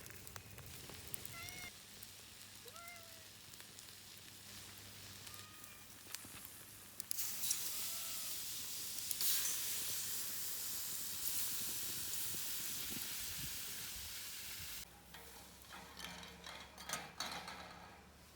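Food sizzling loudly in a hot pan over a campfire. The sizzle starts abruptly about seven seconds in and cuts off a few seconds before the end, after a few short, faint calls.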